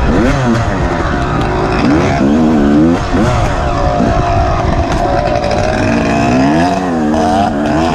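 Off-road dirt bike engine revving up and down over and over as the throttle is worked, held at a steady high rev for a few seconds in the middle.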